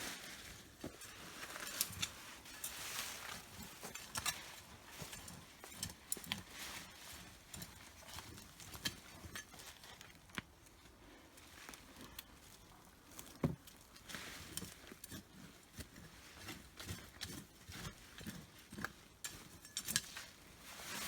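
Digging sweet potatoes out of soil: scattered scrapes, rustles and small knocks of soil, vines and tubers being handled, with one sharper knock a little past halfway.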